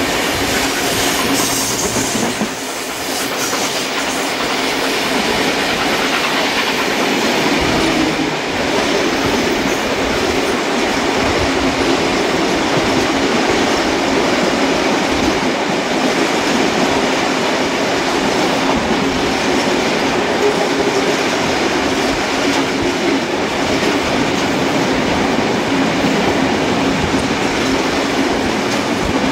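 Passenger train behind steam locomotive 3801 running along the line, heard from an open carriage window: steady wheel-on-rail noise with clickety-clack over the rail joints.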